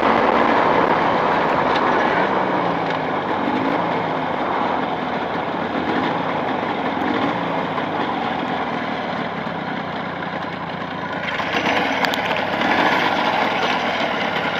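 Two-stroke motorcycle engine running steadily while being run in on freshly fitted Chinese aftermarket cylinders. It gets a little louder and brighter about eleven seconds in.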